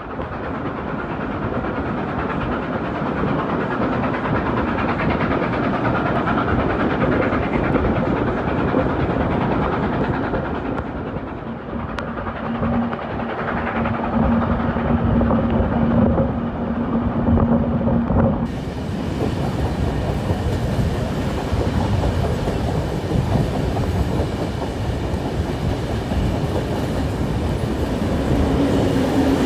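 Passenger train hauled by steam locomotive 5917 running along the track, with a steady rumble and the clickety-clack of wheels over the rails, heard from a carriage window. A steady low tone is held for several seconds midway.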